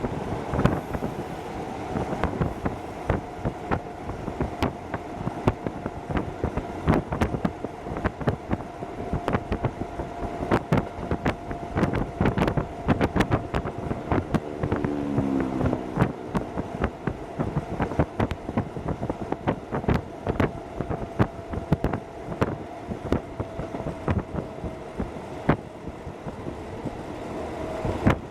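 Hokuso Railway 7260 series electric train running at speed, heard from inside the car: dense rattling and clacking of wheels over the rails, with a steady whine most of the way through. About halfway there is a brief tone that falls in pitch.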